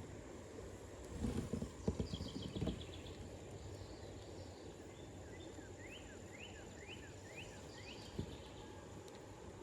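Quiet riverside ambience with birds singing: a few short repeated high notes a couple of seconds in, then a run of quick rising chirps in the second half, over a steady faint high tone. A few low knocks and rustles between about one and three seconds in, and one more near the end.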